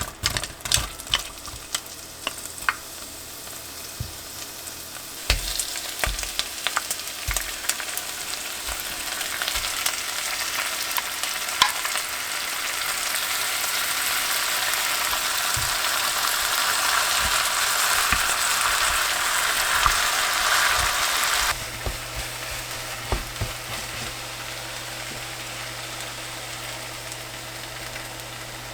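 Food frying in a pan: a sizzling hiss that swells louder over about fifteen seconds, with clicks and knocks of utensils in the first few seconds. The sizzle stops abruptly about three quarters of the way through, leaving a low steady hum.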